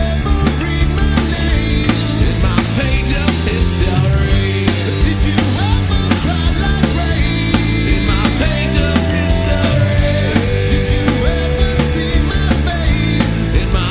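Loud rock music with a full band, drums hitting steadily throughout, and long held notes about two-thirds of the way through.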